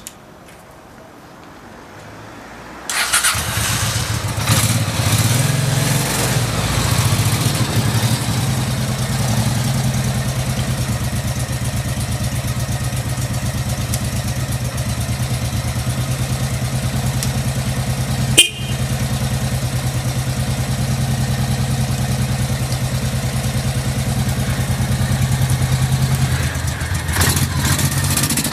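Honda NV750 Custom's V-twin engine being started, catching about three seconds in and then idling steadily. A single sharp click sounds about eighteen seconds in.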